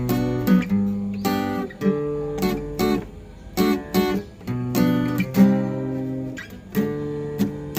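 Acoustic guitar strummed and picked, playing a slow intro with chords changing every second or so.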